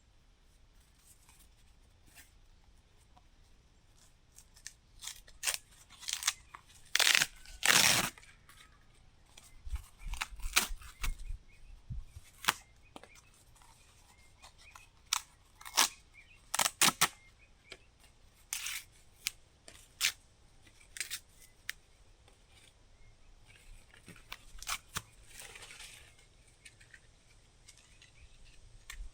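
Irregular sharp cracks and tearing snaps, a couple of dozen spread over the stretch, the loudest pair about seven to eight seconds in.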